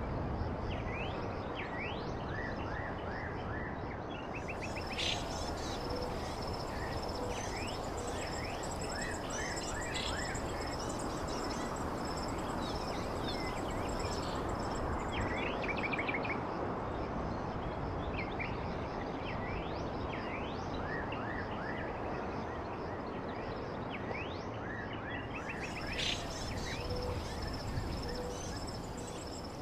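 Small songbirds chirping and twittering in quick repeated notes and short sweeps over a steady background rush, with a thin high steady tone that comes and goes twice.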